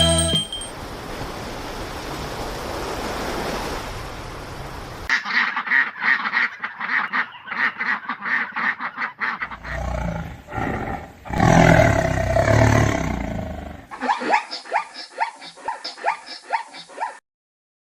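Animal calls from several clips in a row. About five seconds of steady hiss-like noise give way to rapid repeated calls, about five a second. Around ten to thirteen seconds in there is a loud deep sound under the calls, then another quick run of calls that cuts off suddenly near the end.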